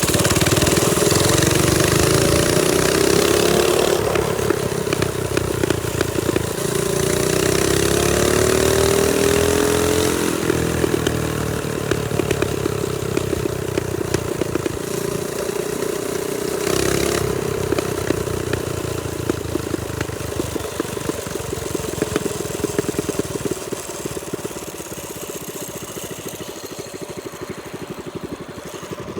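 Trailmaster Storm 200 minibike's small single-cylinder four-stroke engine running while riding, revving up and easing off several times. Toward the end it settles lower and quieter.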